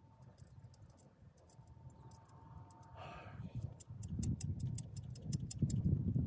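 Hand ratchet clicking as a nut is run onto an alternator mounting bolt, a quick even run of sharp clicks starting about halfway through, over low rumbling handling noise that grows near the end.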